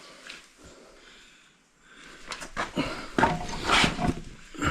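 Hand tools and small metal parts clinking and knocking: a scattered run of clicks and clanks starting about two seconds in.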